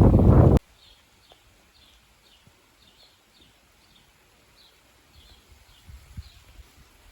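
A loud rushing noise cuts off suddenly within the first second, leaving faint, repeated high bird chirps, about two or three a second, with a few soft low thumps near the end.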